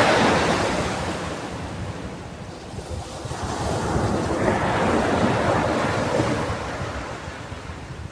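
Ocean waves breaking and washing up a sandy beach: one surge fading out in the first two seconds, another building about three seconds in and ebbing away near the end, with wind buffeting the microphone.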